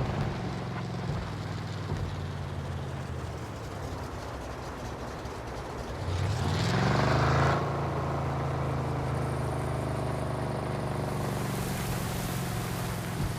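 Chevy 4x4 pickup truck's engine running under load off-road. About six seconds in it revs up, its pitch rising for over a second, then it settles back to steady running. A hiss builds near the end.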